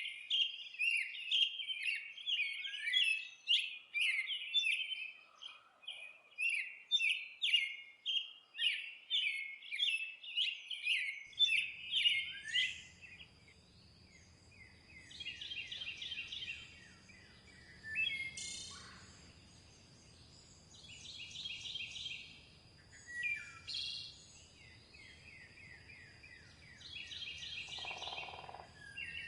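Songbirds singing. For about the first twelve seconds there is a fast, dense run of high chirps. Then the recording changes abruptly to separate short song phrases every two to four seconds over a faint low rumble and a steady high tone.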